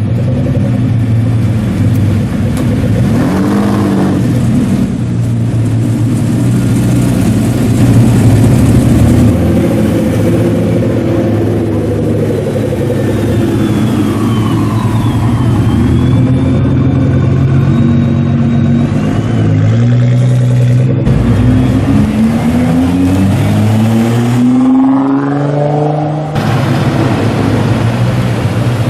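Nissan GT-R sports car engines passing and revving, their pitch rising and falling several times, with one sharp rising rev near the end.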